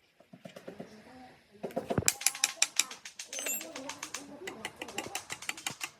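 Fast run of mechanical clicks, roughly eight to ten a second, starting about two seconds in.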